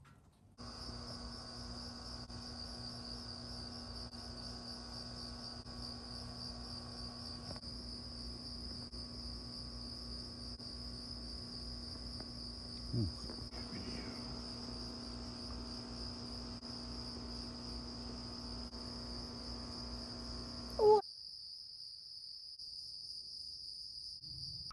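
A steady, high-pitched chorus of crickets chirping, over a low hum. Two short, louder sounds that drop in pitch come about halfway through and near the end, where the low hum cuts off and only the crickets go on.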